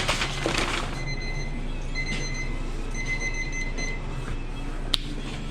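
An electronic alarm beeping: short high-pitched beeps in quick groups, repeating about once a second, over a steady low hum of kitchen equipment. A single sharp click near the end.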